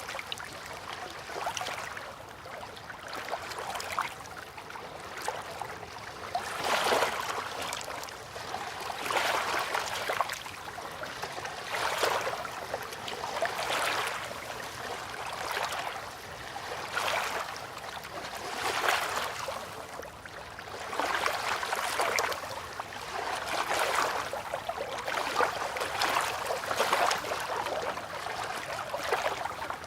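River water lapping gently, rising and falling in soft swells about every two seconds.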